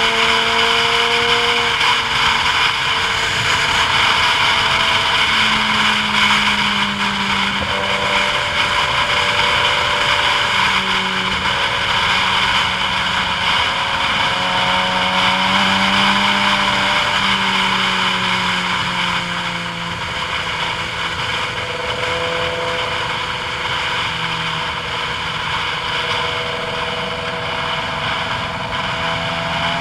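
A vehicle engine running under load on a long downhill ride, its pitch stepping up and down every few seconds as the speed changes. A steady rushing noise sits over it throughout.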